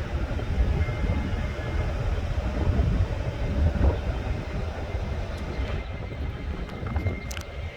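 Train rolling by on the tracks: a dense low rumble that eases slightly near the end, with a faint high steady whine now and then.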